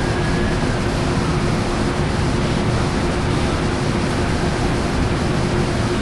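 Steady, unchanging drone of an Amtrak train's diesel locomotive idling at the platform, a constant hum over a wash of engine and fan noise. A distant siren tails off in the first half second.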